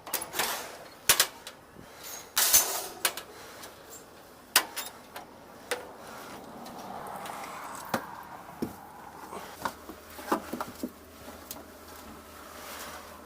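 Handling noise: rustling with a series of sharp clicks and knocks, the loudest about a second in and around two and a half seconds in.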